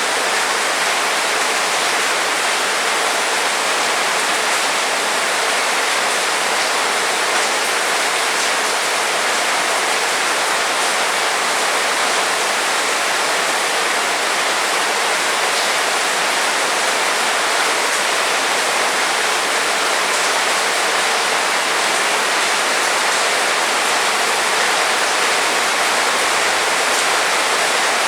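Heavy rain pouring steadily, a dense even hiss with faint scattered ticks of single drops.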